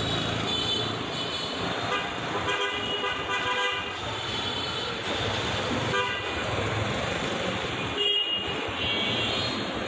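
Busy street traffic with vehicles running past and horns honking again and again, several short toots in turn.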